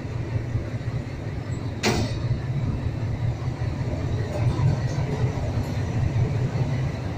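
Low, steady rumble of a train rolling slowly along the track, with a single sharp clank about two seconds in.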